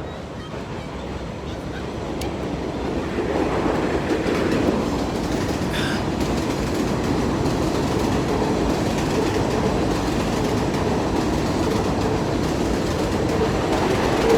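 Elevated subway train on the 7 line running past, its rumble and rattling on the track growing over the first few seconds and then holding steady and loud.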